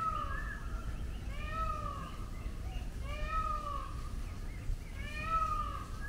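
A bird calling over and over: four drawn-out cries, each rising then falling in pitch, repeated about every second and a half to two seconds.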